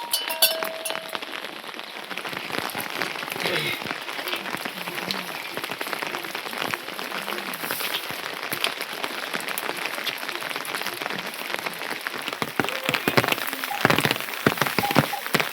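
Steady rain falling on a hard surface: a dense, even patter of drops. A brief clink rings just after the start, and a few heavier drops or knocks come near the end.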